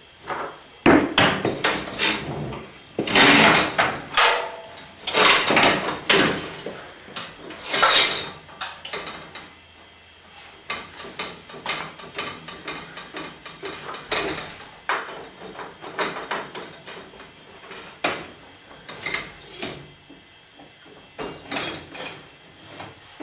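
Repeated knocks, clanks and clatter of tools and garage door torsion spring hardware being handled. The heaviest clatter comes in the first eight seconds, followed by lighter, scattered taps and clicks.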